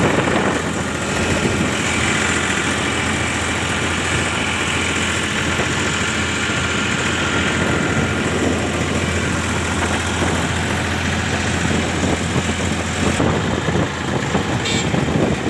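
Powertrac Euro 50 tractor's diesel engine running steadily, a continuous low hum under dense mechanical noise, with a few brief clicks near the end.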